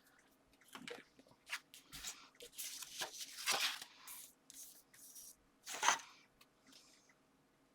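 Paper rustling and crinkling in a series of irregular bursts, loudest about halfway through and again near the end, while excess glue is wiped off the card.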